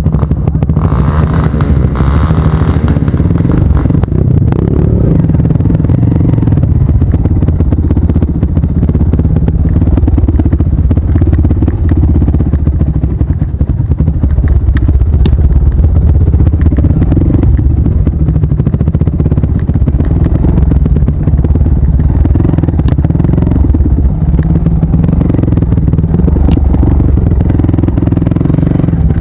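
Off-road trail motorcycle running under way, its engine note shifting up and down, with a heavy low rumble of wind and jolting on the microphone and occasional clatter.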